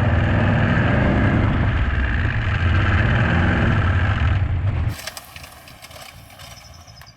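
BMW 735i's V8 engine, running with its oil drained out, pulling under load as the car is driven; it is losing a bit of power. About five seconds in the engine sound cuts off abruptly, leaving a much quieter background with faint ticking.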